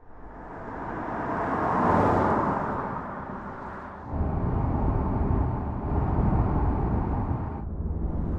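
Mercedes-AMG E53 Hybrid driving past, its engine and tyre noise swelling to a peak about two seconds in and then fading. About four seconds in the sound cuts abruptly to a deeper, steady engine rumble, and near the end it cuts again to a duller low hum.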